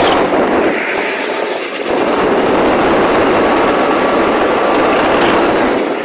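Rlaarlo XBS radio-controlled car running, a loud steady rush of motor and tyre noise that eases briefly about a second in and again near the end.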